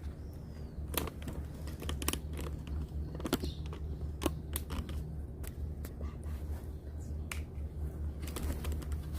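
Scattered sharp clicks and light taps, a dozen or so irregularly spaced, over a steady low hum.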